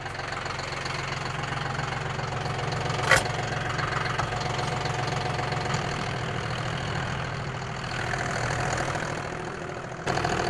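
A vehicle engine running steadily at idle, with one sharp clank about three seconds in.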